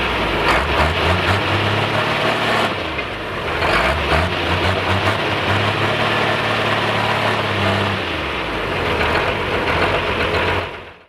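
A heavy pulling engine running steadily at low speed, with outdoor noise around it. The sound fades out quickly at the very end.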